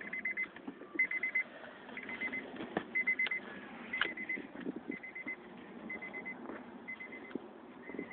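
Car's door-open warning chime: a short, high, pulsing beep repeating about once a second after the engine has been shut off and the driver's door opened.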